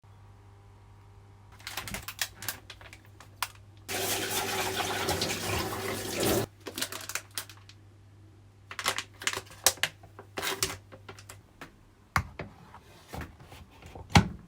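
Water runs from a tap for about two and a half seconds, among scattered clicks and knocks of things being handled, over a steady low hum.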